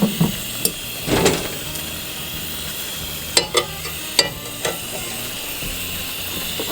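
Creamed corn sizzling in a cast iron skillet, with a spoon scraping and knocking against the pan several times as it is stirred.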